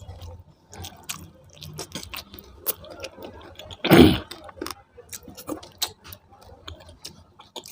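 Close-miked chewing of food, with many small wet mouth clicks. One louder, longer mouth sound comes about four seconds in.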